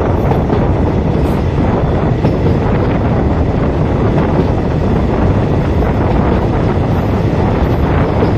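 Wind buffeting the microphone over the steady rumble of a passenger train running at speed, heard from an open carriage window.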